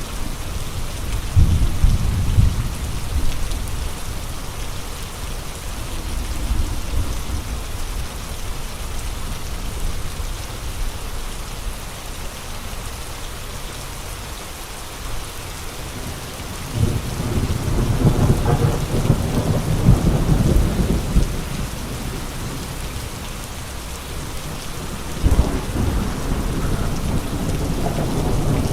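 Steady rain with a gusty storm wind. Deep rumbling swells come about two seconds in, again for several seconds past the middle, and once more near the end.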